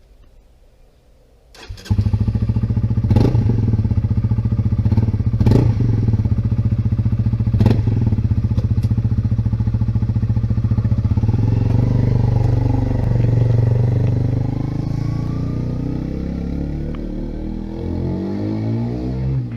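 Motorcycle engine running steadily, starting abruptly about two seconds in, with a few sharp clicks or knocks over it in the first several seconds.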